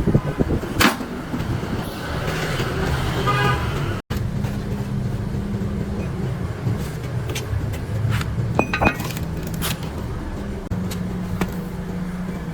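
Motor of a restored wall plastering machine running steadily with a low drone. The sound cuts out sharply about four seconds in and resumes straight away, with a few sharp clicks and knocks over it.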